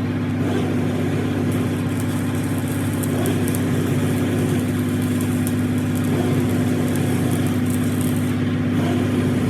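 A machine running with a steady low hum, with a crackling hiss over it.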